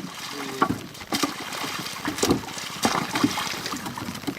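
Water splashing and trickling around a small boat, with irregular knocks scattered through it.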